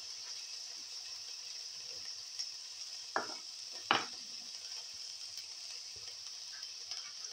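Sliced onion and garlic frying in hot oil in a pan, a steady sizzle. Two brief knocks sound a little past the middle, about a second apart.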